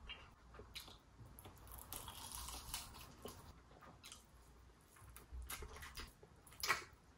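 Faint close-up mouth sounds of a person biting and chewing fried chicken: soft crunching and wet squishes with scattered small clicks, and one sharper click near the end.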